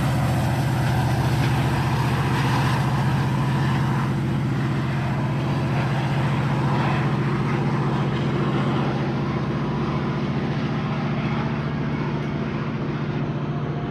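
Diesel train locomotive running steadily with a deep, even engine hum, slowly getting a little quieter.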